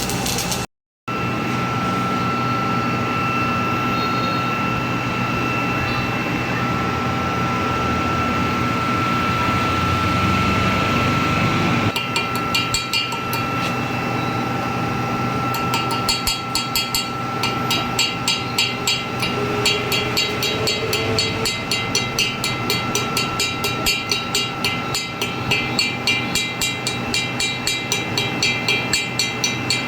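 Stick (arc) welding on steel pipe: a steady hum, then from about twelve seconds in the electrode arc crackles and sputters densely and irregularly.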